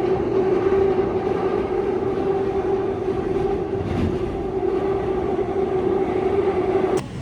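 A train running, heard as a loud steady rumble with a constant whine.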